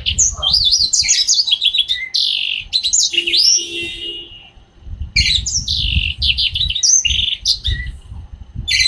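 Young yellow-fronted canary singing in two long phrases of rapid, high, warbling notes, with a short break in between.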